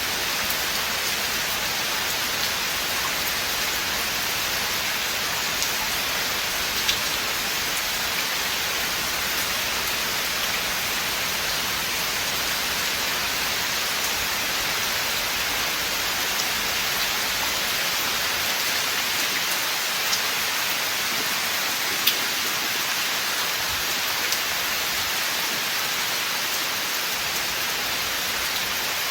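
Steady rain falling through forest, an even hiss with scattered individual drops ticking on leaves and surfaces, a few sharper drops standing out here and there.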